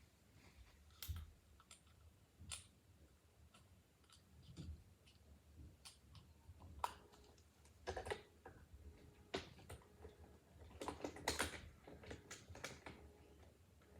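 Faint, irregular clicks and knocks of small objects being handled, thickest about eight seconds in and again around eleven to twelve seconds.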